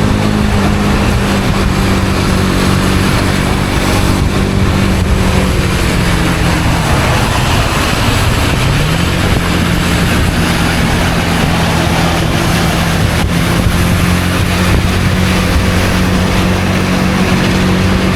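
Honda CB250R's single-cylinder engine running at a steady cruise, over loud wind and tyre hiss. About halfway through the engine note drops and then climbs back to its earlier pitch, as the rider eases off and opens the throttle again.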